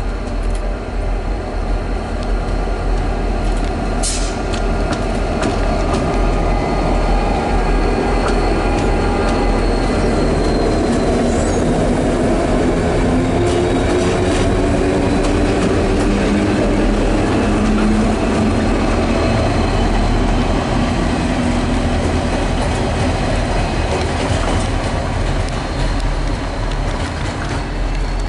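Goods train hauled by Pacific National diesel-electric locomotives passing close by, engines running under load with steel wheels on the rails, loudest around the middle as the locomotives go by.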